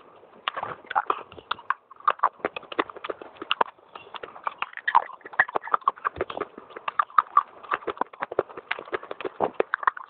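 Dry baked clay being bitten and chewed close to the microphone: a fast, irregular run of crisp cracks and crunches with a few brief pauses.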